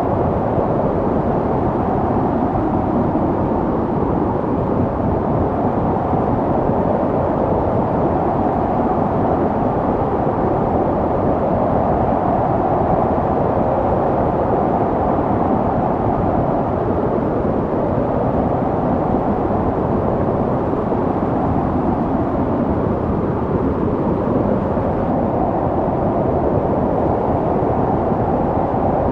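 Snowstorm wind blowing steadily: a low, dense rushing noise that slowly swells and eases.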